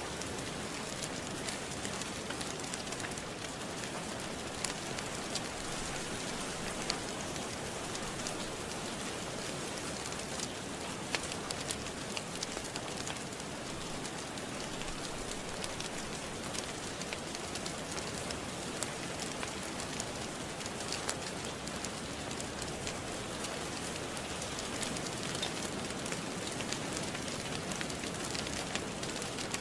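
Steady rain falling, with scattered sharp crackles and pops from a fireplace fire.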